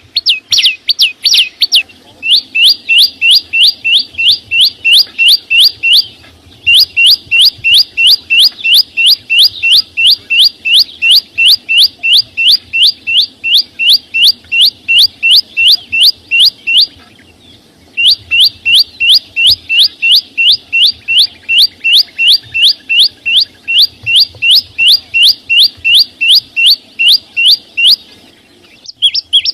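Small songbird known in Vietnamese as chim sâu xanh calling in long, fast runs of sharp, downward-sweeping notes, about four a second, with brief pauses about six seconds in, near the middle and near the end.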